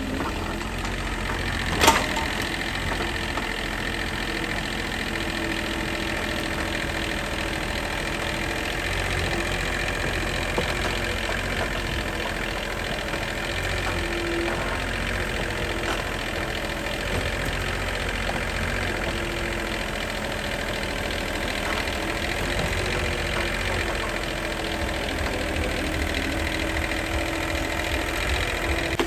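A motor running steadily, with one sharp click about two seconds in.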